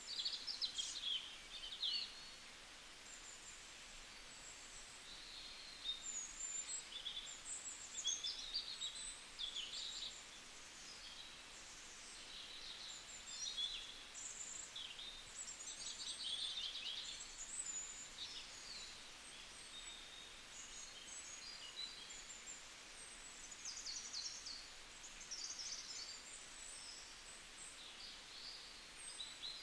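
Wild birds chirping and calling, a steady stream of short high notes with now and then a quick trill, over a steady background hiss.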